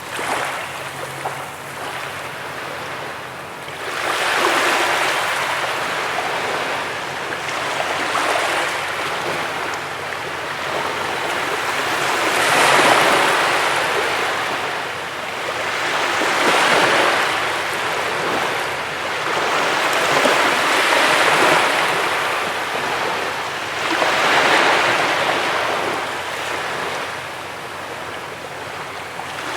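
Sea waves washing onto a beach, a steady rush of surf that swells and ebbs about every four seconds.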